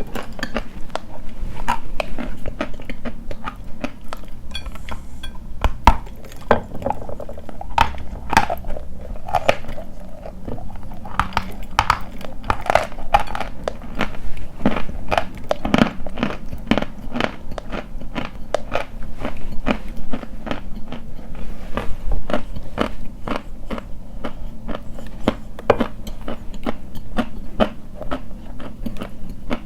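Dry white chalk being bitten and chewed: a dense run of sharp crunches, several a second.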